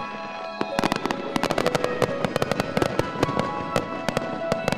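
Aerial fireworks popping and crackling in quick, dense volleys, busiest from about a second in, over music with long held notes.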